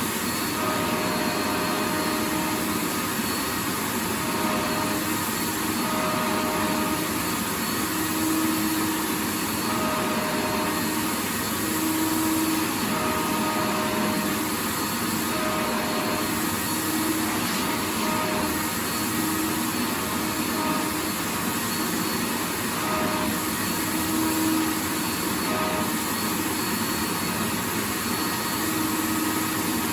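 Vacuum cleaner running continuously: a steady rushing motor and airflow noise, with a faint hum that wavers in and out every second or two.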